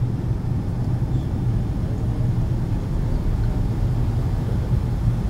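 Steady cabin drone of a Boeing 757-200 airliner: engine and airflow noise heard inside the passenger cabin, a low even hum that holds level throughout.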